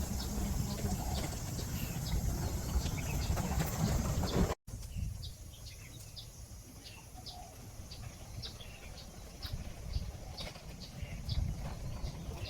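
Small birds chirping in short, repeated high notes, several a second, over a low outdoor rumble.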